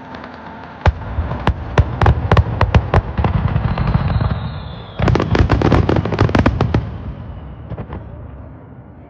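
Fireworks display: a loud boom about a second in, then rapid sharp crackling reports, with a second dense wave of crackles about five seconds in that dies away near the end.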